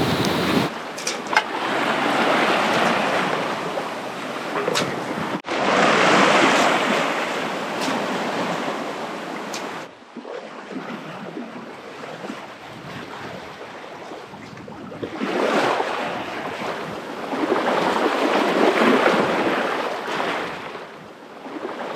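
Sea water rushing and washing around a sailboat underway, swelling and easing in surges every few seconds, with some wind on the microphone. The sound breaks off abruptly twice, about five and ten seconds in.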